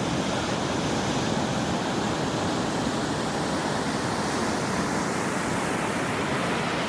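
Ocean surf washing on a shore: a steady, even rush of water noise with no single wave crash standing out.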